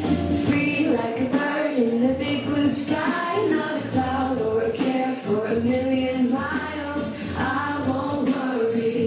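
Singing voices, children's and women's, carrying a melody over instrumental backing with a steady beat of high taps.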